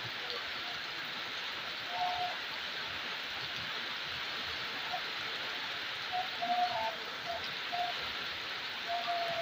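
Heavy rain falling steadily on roofs and a wet paved street, an even hiss. A few short, high calls cut through it about two seconds in, again between six and eight seconds, and near the end.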